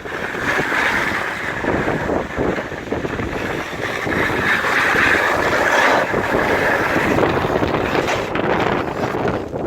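Strong, gusting storm wind blowing against the microphone: a continuous rushing noise that swells and eases in gusts, with a high hissing band.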